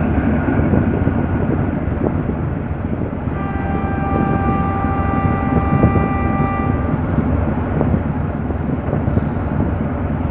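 Boat engine running with a steady low rumble and wind on the microphone. A steady horn sounds for about three and a half seconds, starting about three seconds in.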